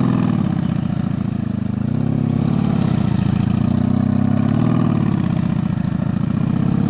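Honda Magna's V4 motorcycle engine running at low speed, its pitch falling and rising a few times as the throttle is eased and opened.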